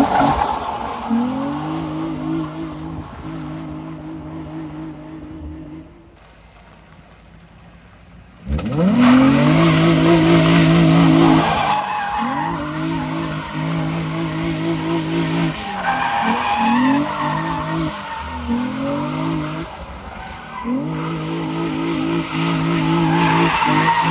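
2003 Nissan 350Z's 3.5-litre V6 held at high revs near the limiter, with tyres squealing and skidding as the car slides. Several times the revs drop and climb back up. There is a short quieter stretch about six seconds in.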